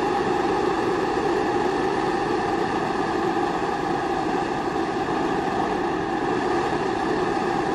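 Kerosene pressure stove (Primus-type babour) burning steadily, a constant rushing noise with a faint steady hum in it.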